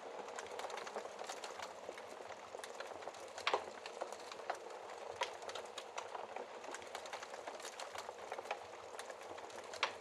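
Wood fire crackling in a fireplace: a steady hiss of flames under many small crackles. Louder pops come about three and a half seconds in and again near the end.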